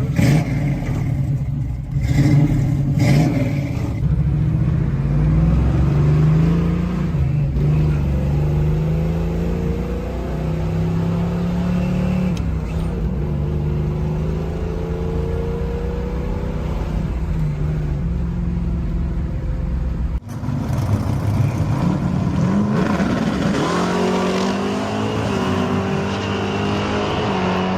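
Chevrolet Camaro Z28's 302 cubic-inch V8 running under way, its pitch rising and falling as it is driven. About twenty seconds in, the sound breaks off abruptly, then the engine comes back and revs up.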